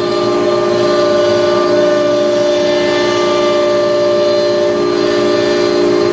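An ATC CNC router running: a loud, steady whine of several held tones from the spindle and machine, over a hiss of noise.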